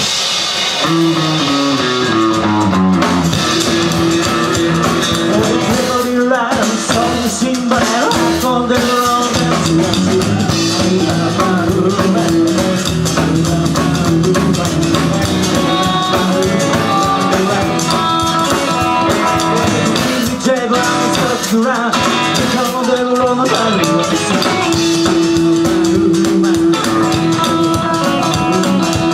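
Rock and roll band playing with guitar and drum kit, opening with a run of notes stepping down in pitch in the first few seconds.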